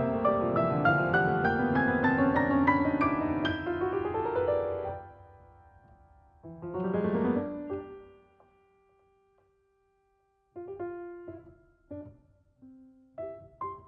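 Background solo piano music: fast rising arpeggio runs that die away about five seconds in, one more rising run, a brief pause, then slow, separate notes and chords.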